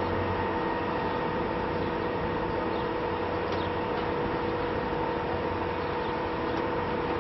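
Steady drone of a running vehicle engine: a constant hum with several held tones over a noisy rumble, unchanging throughout.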